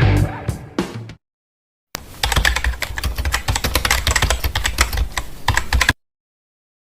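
Rapid computer-keyboard typing clicks for about four seconds, starting about two seconds in and cutting off abruptly. Before that, the tail of a guitar rock track ends within the first second.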